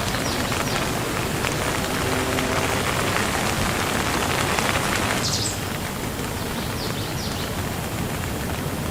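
Steady rain falling, a continuous even hiss that eases slightly about halfway through, with a few brief high chirps scattered through it.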